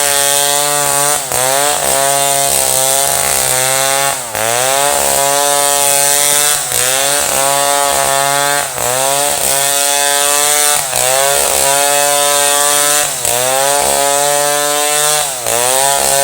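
Chainsaw running at high speed while cutting wood. Its pitch dips briefly and recovers every one to two seconds.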